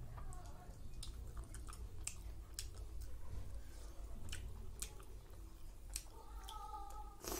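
Close-up chewing of rice and chicken curry, with scattered wet mouth clicks and smacks, over a steady low hum. A brief steady tone lasts about a second near the end.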